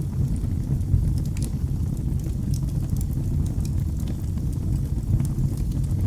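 Wood fire burning in a fireplace: a steady low rumble of flames with frequent small, sharp crackles and pops.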